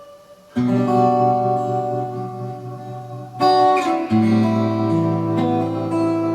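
Instrumental music led by acoustic guitar: sustained chords strummed in, a loud new chord entering about half a second in and another near the middle, ringing on over a held low note.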